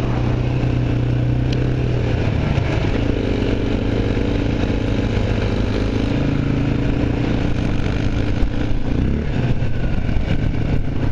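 Honda XR650L single-cylinder four-stroke engine running under way, its engine speed stepping up and down a few times.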